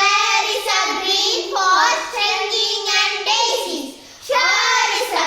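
Child singing an English school poem to a simple tune, in phrases with a short pause about four seconds in.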